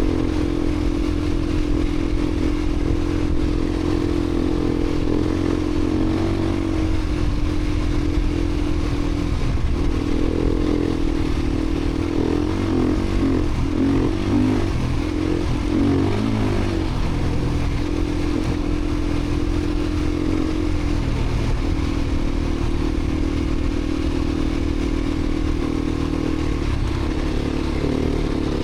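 Beta 350 RRS dirt bike's single-cylinder four-stroke engine running under way, holding a steady note for most of the time, with the pitch wavering up and down between about ten and seventeen seconds in as the throttle changes.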